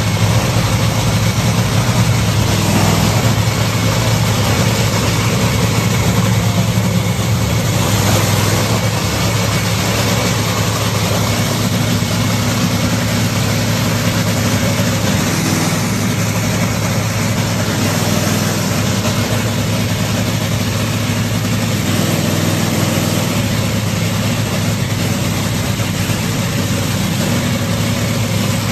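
Drag racing car's engine idling steadily with a deep, even drone and no revving.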